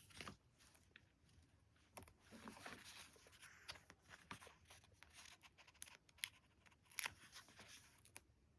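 Quiet handling of paper and stickers for diary decorating: light crinkles, rustles and small sharp taps at irregular intervals, with a louder crinkle about seven seconds in.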